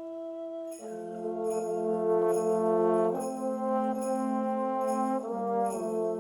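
High school concert band playing a Christmas piece. A soft woodwind line gives way about a second in to full, louder brass chords, with high bell strikes ringing about every three-quarters of a second.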